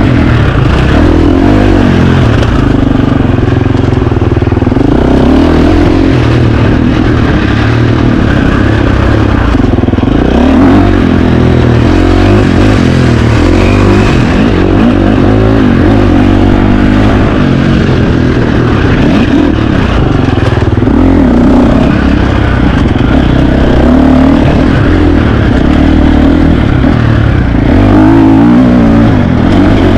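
KTM 350 XC-F single-cylinder four-stroke dirt bike engine being ridden hard off-road. The revs climb and drop again and again through the gears, with clattering mixed in.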